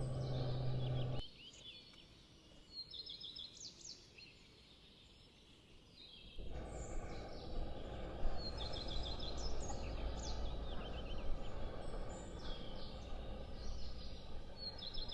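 A songbird singing a short, high trilled phrase again and again, every second or two, over a steady low rumble that drops away for about five seconds near the start.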